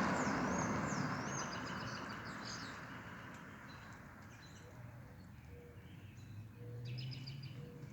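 Songbirds singing outdoors: a warbling, wavering song at first, then scattered short chirps, over a steady hiss of background noise that fades over the first few seconds.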